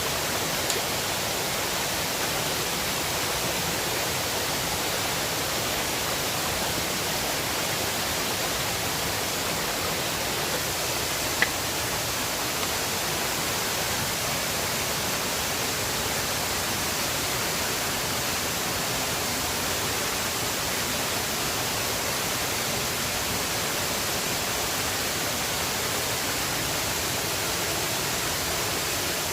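River water rushing in a steady, even wash, with a single small click about eleven seconds in.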